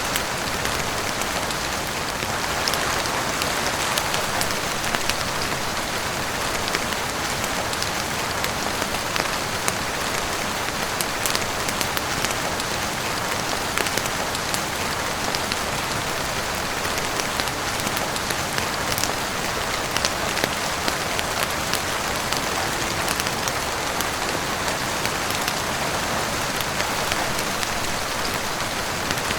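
Heavy rain falling steadily on a roof, a dense even hiss with many small sharp ticks scattered through it.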